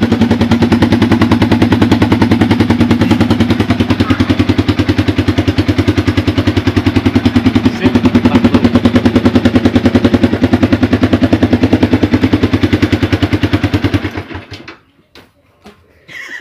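Yamaha Vixion's single-cylinder four-stroke engine running at idle through a TOA horn loudspeaker fitted as its exhaust: a loud, fast, even string of exhaust pulses. It stops about fourteen seconds in.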